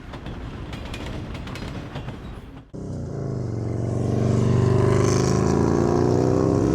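A motor vehicle engine: rough and uneven for the first few seconds, then after a sudden cut a steady, even engine note that grows louder and holds.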